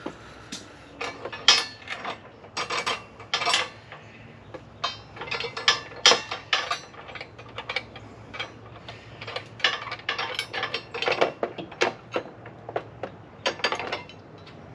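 Hands handling a metal motorcycle accessory and its packaging: an irregular run of clicks, clinks and rustles, busiest around two, six and eleven seconds in.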